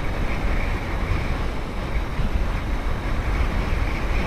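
Steady wind noise rushing over the action-camera microphone of a motorcycle at highway speed, with the bike's engine and road noise beneath it.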